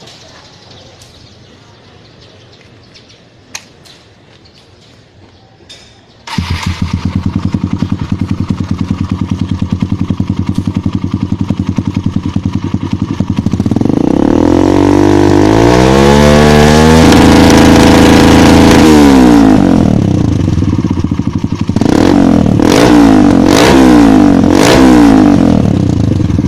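Kawasaki KLX single-cylinder dirt bike running through a Triton CR-5 stainless aftermarket exhaust. After about six seconds of quiet with a few small clicks, the engine comes in loud at idle. It is then revved up in one long rising rev, held, and let fall back to idle. Near the end it is blipped in four or five short, quick revs before settling to idle again.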